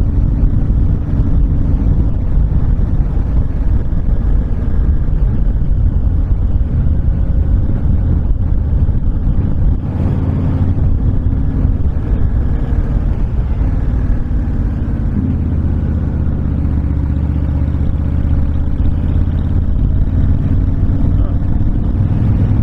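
Honda VTX1300 cruiser's V-twin engine running at a steady road speed, with heavy wind rush over the rider, whose windshield is off. About ten seconds in the sound briefly dips and shifts, like a throttle or gear change, then runs on steadily.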